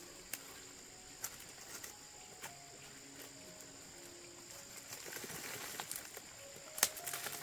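Steady high-pitched insect drone with soft background music notes, a few sharp knocks, the loudest near the end, and rustling in the second half.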